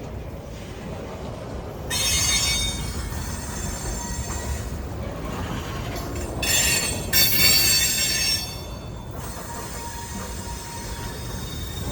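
Freight train wheels squealing on curved track, high-pitched bursts about two seconds in and again from about six and a half to nine seconds. A steady low rumble from the train runs underneath.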